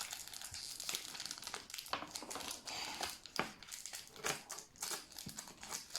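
Packaging crinkling and rustling as items are taken out of a box, with irregular small crackles and clicks.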